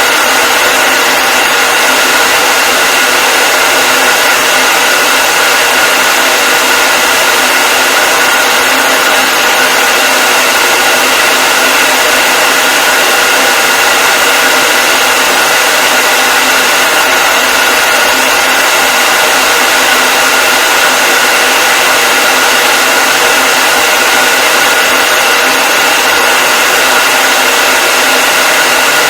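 Hair dryer running steadily: a constant blowing hiss with a steady high motor whine and no change in speed.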